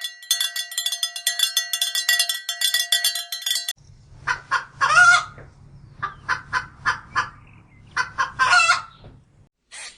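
A dense, fast chattering chorus that cuts off suddenly about four seconds in, then chickens clucking in short separate calls, two of them longer squawks, over a low hum.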